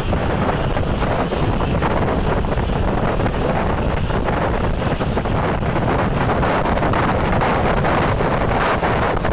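Strong wind buffeting the microphone over a steady rumble of road traffic.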